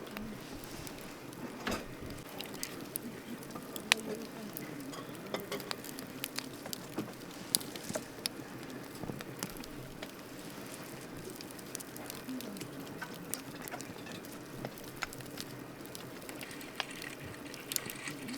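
Wood campfire crackling: a steady hiss with many irregular sharp pops and snaps, two louder snaps about four and seven and a half seconds in.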